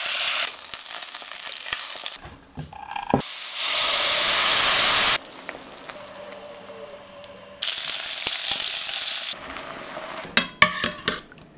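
Food frying in a hot pan: sizzling in three separate stretches with quieter passages between, the loudest about three and a half to five seconds in. Near the end a utensil clinks against the pan several times.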